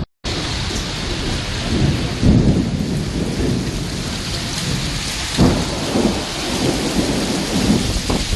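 Heavy rain pouring down through a thunderstorm, with thunder rumbling underneath and swelling louder about two seconds in and again just past the middle. The sound drops out for a split second at the very start.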